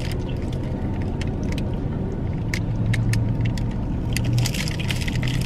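Steady low hum of a car's interior, with scattered light clicks and crinkles of a paper food wrapper being handled.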